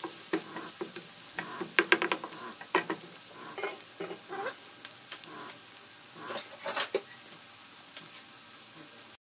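Chopped onion, garlic, ginger and green chili sizzling in hot oil in a nonstick frying pan, with a steady hiss. A wooden spatula knocks and scrapes sharply now and then as the aromatics are stirred.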